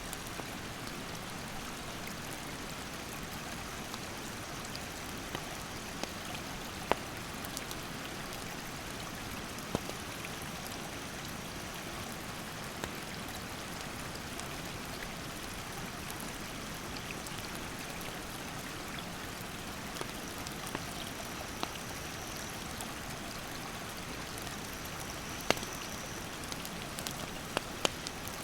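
Steady rushing of a mountain stream over rapids, with a wood campfire crackling and giving sharp, scattered pops, several close together near the end.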